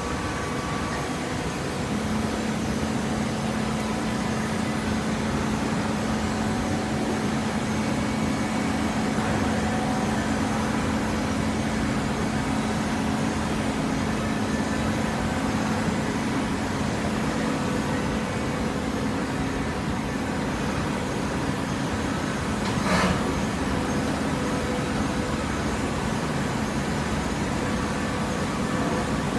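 Horizontal hydraulic cardboard baler running steadily, with a steady hum that sets in about two seconds in. One sharp clank comes about three-quarters of the way through.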